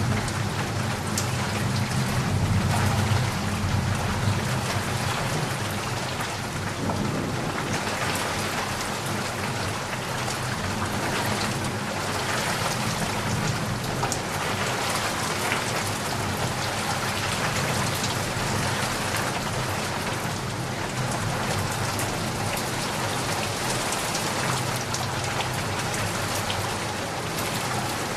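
Steady rain pattering on a surface, with a low rumble of thunder in the first several seconds that returns near the end.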